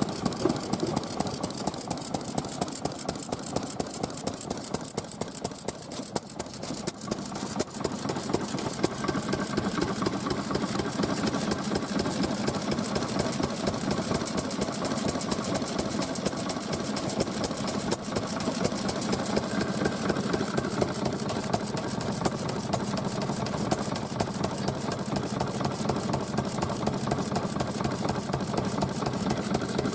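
Vintage stationary engine running steadily, its exhaust beats coming fast and even, with a steady higher tone joining about nine seconds in.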